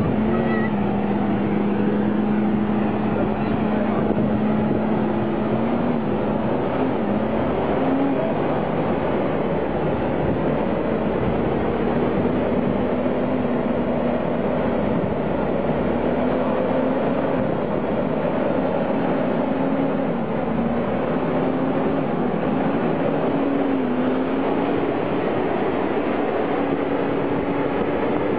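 Fendt 936 tractor's six-cylinder diesel engine running hard under load during a tractor pull. Its pitch climbs slowly, in small steps, over the run.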